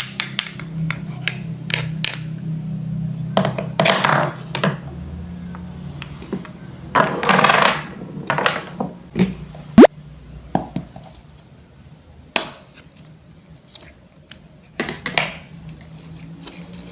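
Wooden toy fruits and vegetables being cut with a toy knife: sharp clicks and taps of wood on wood, and several short rasping rips as the Velcro-joined halves pull apart. About ten seconds in there is one brief, sharp rising squeak.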